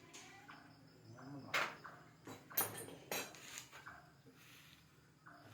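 A few sharp clicks and knocks, the loudest about a second and a half, two and a half, and three seconds in, over faint voices and a thin steady high whine.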